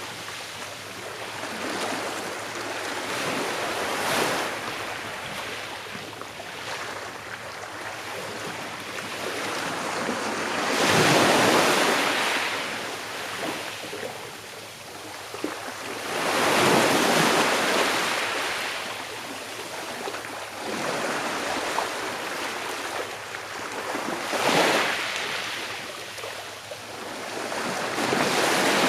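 Ocean waves breaking on a shore and washing back, in slow irregular swells, several seconds apart, with the loudest waves about 11 and 17 seconds in.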